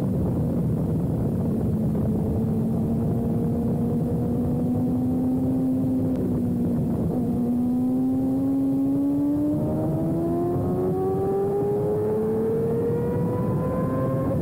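Sportbike engine running at track speed with heavy wind rush on the on-bike camera; the engine note holds fairly steady, then climbs smoothly over the last few seconds as the bike accelerates.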